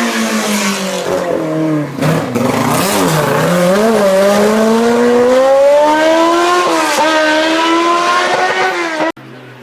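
Race car engine under hard running: the note falls over the first couple of seconds, then climbs steadily through the gears, with a shift about seven seconds in. It cuts off abruptly near the end.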